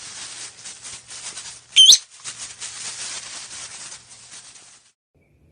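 Steady dry rustling and rattling, with one short, loud whistle that sweeps up and down about two seconds in, typical of a pet parrot; the rustling stops shortly before the end.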